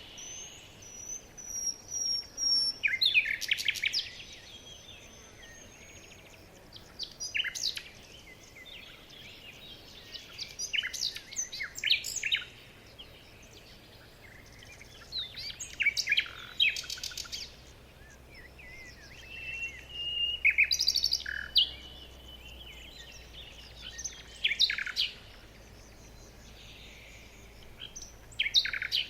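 Songbirds singing: short bursts of chirps and whistled notes every few seconds, with quiet gaps between phrases and a couple of longer, level whistles.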